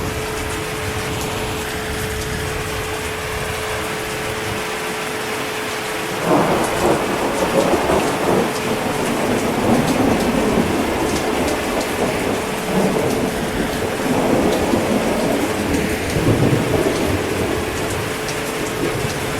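Steady heavy rain with a long roll of thunder that begins suddenly about six seconds in and rumbles in waves for around ten seconds before fading back to the rain.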